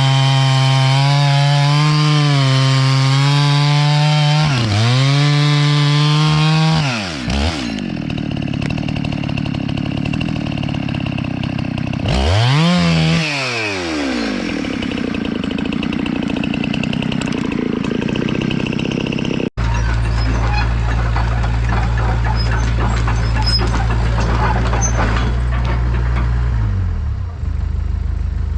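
Two-stroke chainsaw running at full throttle, sagging briefly about four seconds in, then dropping off and revved up once more a few seconds later. After an abrupt change, a low steady engine drone with scattered crackles, which is likely the Hitachi EX100 excavator working among the felled pines.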